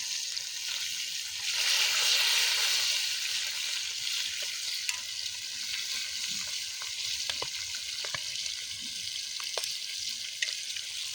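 Floured curimbatá fish frying in hot oil: a steady sizzle that swells louder about two seconds in, with scattered small crackles and pops.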